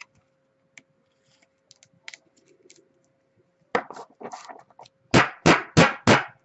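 Trading cards being handled on a table: a few light clicks, a rustle about four seconds in, then four quick scraping strokes about a third of a second apart near the end.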